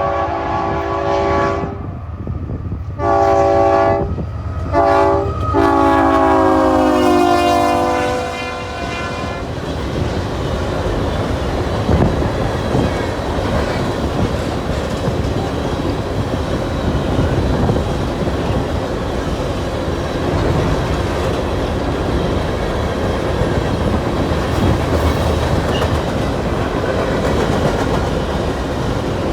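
Union Pacific freight locomotive's air horn blowing the grade-crossing pattern: long, long, short, long. The last blast drops in pitch as the locomotive passes. Then the loaded coal train rolls by, its wheels clacking and rumbling over the rail joints.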